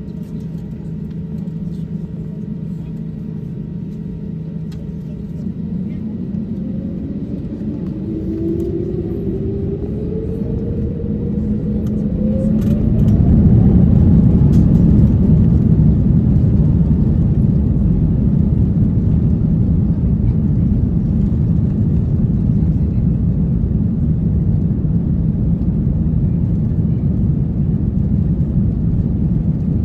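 Airbus A350-900's Rolls-Royce Trent XWB engines spooling up for takeoff, a whine rising in pitch over several seconds, then a loud steady rumble from about halfway through as the takeoff roll gets under way, heard from inside the cabin.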